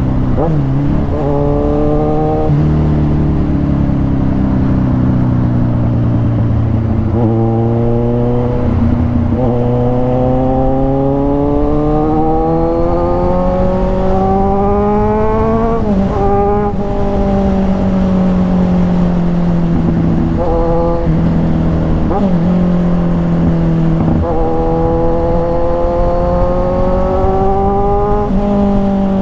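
Kawasaki Ninja 1000's inline-four engine through an SC-Project aftermarket exhaust, ridden hard and loud. The engine note climbs in pitch under acceleration and drops back at each gear change or throttle lift, several times over, with the longest pull peaking about sixteen seconds in.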